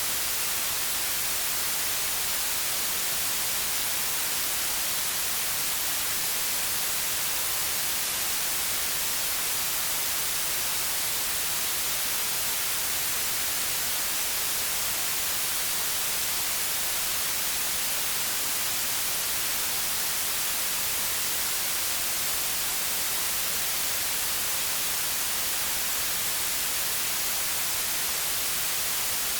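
Steady white noise: an even, unchanging hiss, brightest in the treble, with no rhythm or variation.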